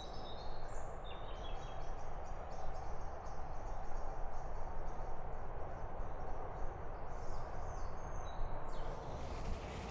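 Outdoor ambience with birds chirping: short high notes repeated several times a second over a steady background hiss. About nine seconds in, the birds fade under a louder hiss.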